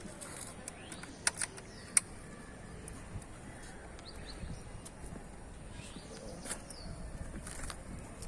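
Quiet outdoor background with faint bird chirps and a few sharp clicks; no engine is running.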